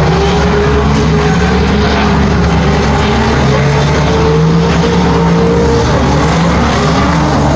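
Several drift cars' engines running hard together, their pitches rising and falling and crossing as the drivers work the throttle, over a steady haze of tyre and track noise.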